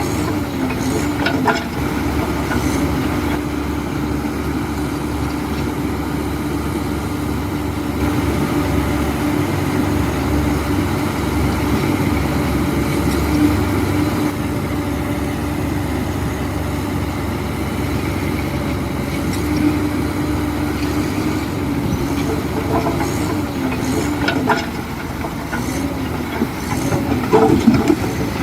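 Heavy diesel construction machinery running steadily under load, with a few short metallic squeals and clanks about a second in and again near the end.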